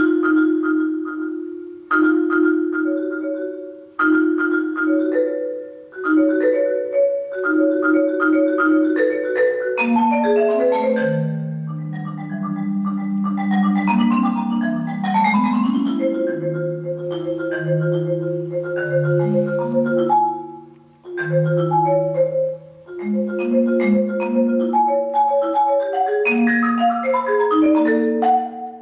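Solo marimba playing slow music of held, sustained notes. It begins in short phrases with brief breaks about every two seconds, then moves into the deep low bars from about ten seconds in, with a pause near twenty seconds.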